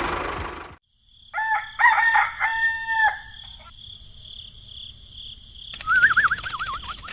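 A rooster crows once, from about a second in for nearly two seconds, after engine noise cuts off. Near the end comes a warbling high-pitched call.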